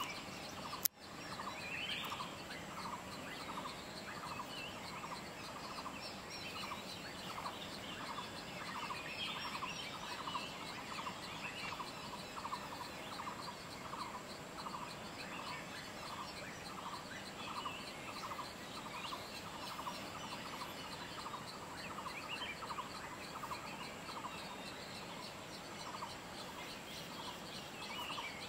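A bird repeating a short note evenly, about twice a second, with faint scattered chirps of other birds and a steady high insect-like whine behind. A single sharp click about a second in.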